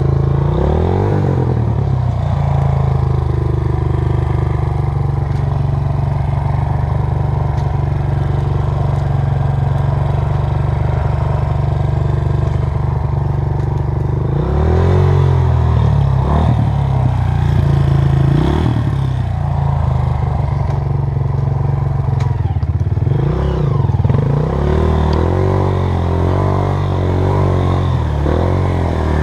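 Honda CRF230 dirt bike's single-cylinder four-stroke engine running steadily at low revs. It is revved up and down several times, in a cluster from about halfway in and again near the end.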